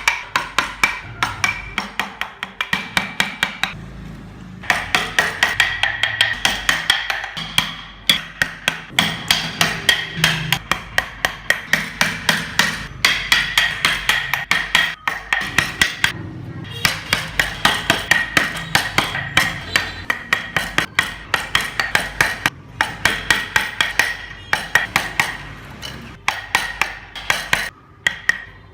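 Hammer or mallet rapidly tapping a carving chisel into wood, about four strikes a second with a ringing tone, pausing briefly a few times.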